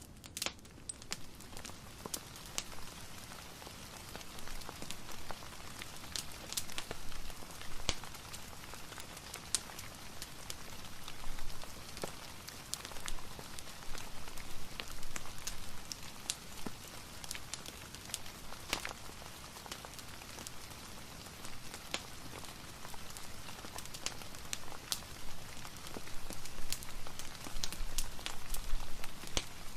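Soft, steady rain mixed with a crackling fireplace: an even hiss, dotted throughout with scattered sharp crackles and pops.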